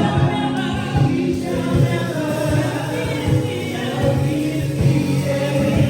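Gospel choir singing with instrumental accompaniment, many voices together over a steady beat.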